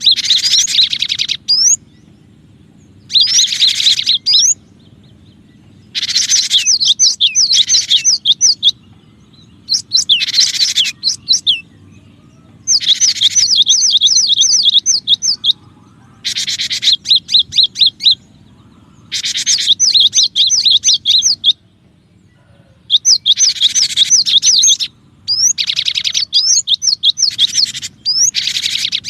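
Cinereous tit (gelatik batu) singing loudly in repeated bursts of quick, high, upswept notes. Each burst lasts one to three seconds, with short pauses between.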